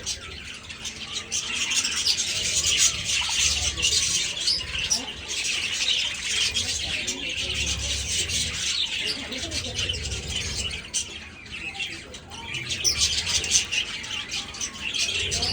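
A flock of budgerigars chattering and chirping, many birds calling at once in a dense, continuous racket that eases briefly about two-thirds of the way through.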